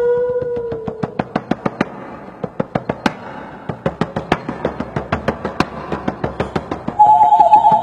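Rapid, irregular dry taps or clicks, several a second, as a held tone fades out in the first second. About seven seconds in, a new, higher held tone starts.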